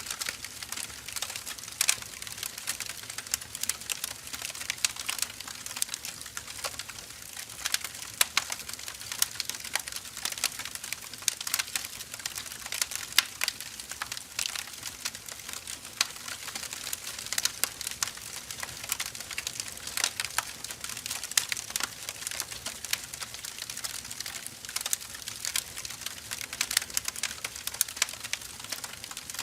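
Firewood burning and crackling: many irregular sharp snaps and pops over a soft hiss.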